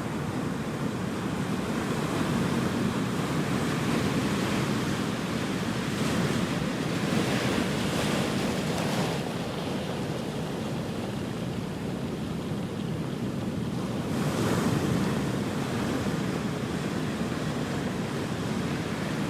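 Ocean surf: a continuous rushing wash of waves. The rush swells louder about a third of the way in, and again about three-quarters of the way through, as larger waves break.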